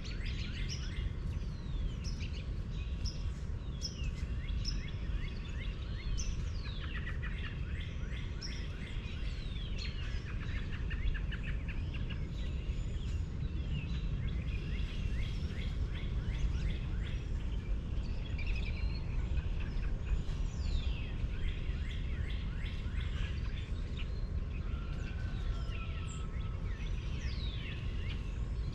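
Many small birds chirping and calling, with quick falling whistles and fast trills, over a steady low rumble.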